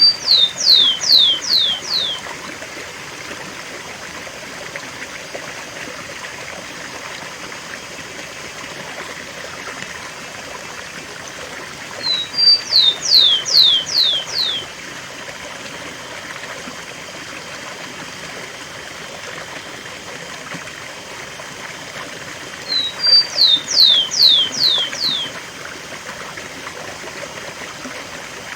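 Rufous-collared sparrow (tico-tico) singing its 'cemitério' song type three times, about ten seconds apart. Each song is two short high notes followed by five quick downward-sliding whistles, over the steady rush of waterfall water.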